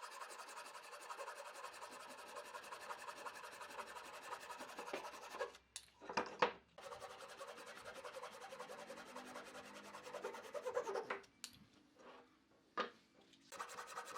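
Wood being rubbed by hand with an abrasive tool in quick, even strokes, stopping twice for short pauses with a few light taps.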